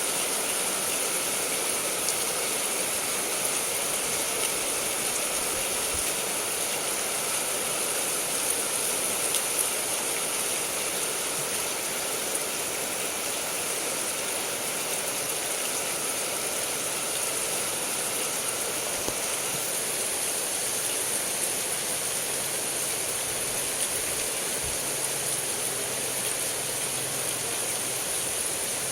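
Heavy rain pouring down steadily, a dense even hiss with no breaks. A faint low hum comes in near the end.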